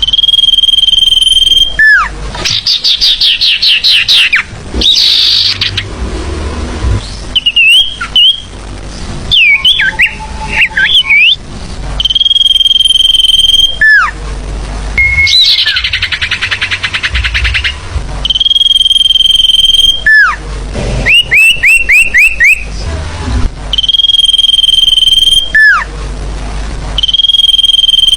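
Bird-lure recording of mixed forest birdsong, loud and spliced together. A long, steady, high whistle that ends in a sharp downward slur comes back about five times. Between the whistles are quick runs of rising notes, chattering calls and a buzzy trill.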